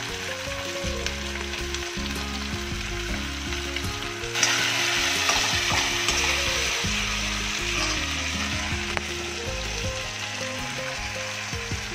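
Chopped tomatoes and onions sizzling as they fry in hot mustard oil in an iron kadhai, stirred with a steel ladle. The sizzle gets louder about four seconds in.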